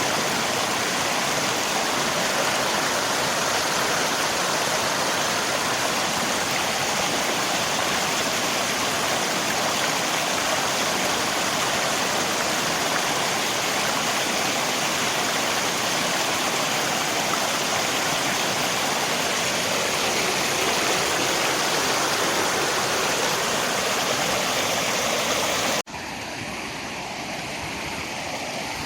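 Steady rushing of rain and river water. About 26 seconds in it cuts off abruptly and goes on as a quieter stretch of the same kind of water noise.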